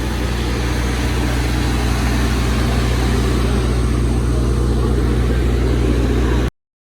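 An engine running steadily with a low drone and a hiss over it. It cuts off suddenly near the end.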